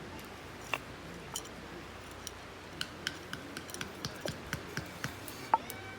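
Dry wood snapping and crackling: a scatter of sharp irregular snaps that come thicker in the second half, the loudest one near the end, as kindling is broken or catches for a campfire.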